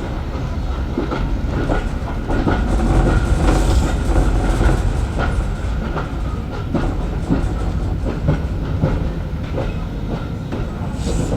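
Heritage railway carriage running along the track, heard from on board: a steady low rumble with irregular clicks and knocks from the wheels over the rails.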